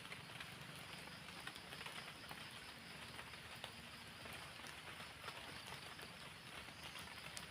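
Light rain falling, a steady faint hiss with scattered drops ticking irregularly.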